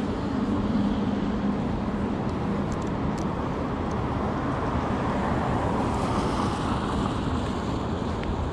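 City street traffic noise: a steady rumble of passing vehicles, with a low engine hum fading out in the first couple of seconds.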